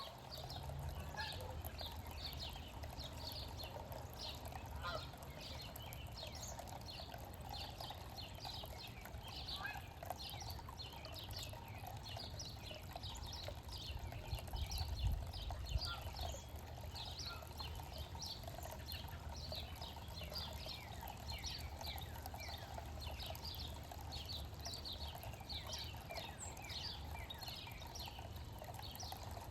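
Backyard birds chirping: a dense, continuous stream of short, high, falling chirps from many small birds, over a steady low rumble.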